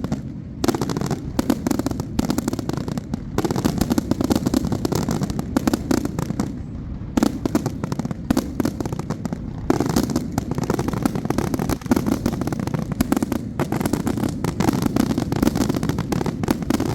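Fireworks going off in dense, rapid volleys of crackles and pops over a low rumble, with a few short lulls.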